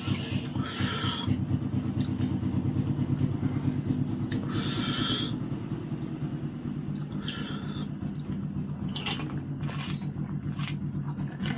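A steady low mechanical hum, like a motor running, with several short crisp noises a few seconds apart; the loudest of these comes about five seconds in.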